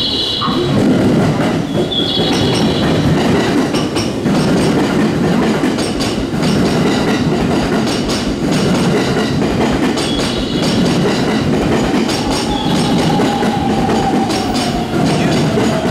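Train running on rails, its wheels clacking over the rail joints under a steady heavy rumble, with brief high squeals. A whine falls in pitch over the last few seconds.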